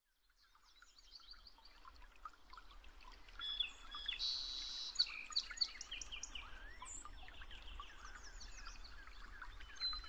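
Several small birds chirping and calling at once, with many short high chirps overlapping. The calls fade in over the first second, and a brief buzzy trill comes about four seconds in.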